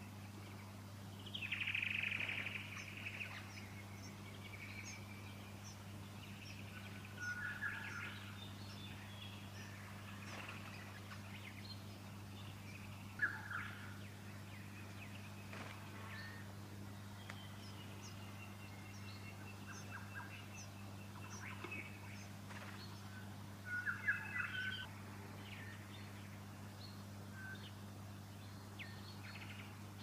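Wild birds calling in scattered short bursts of chirps and whistles. The loudest come about two seconds in and again around twenty-four seconds, with a long thin whistle in between. A steady low hum runs underneath.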